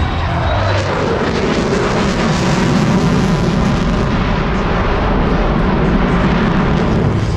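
Loud jet roar of an F-35 stealth fighter's single turbofan engine as it flies past, its pitch falling over about the first second.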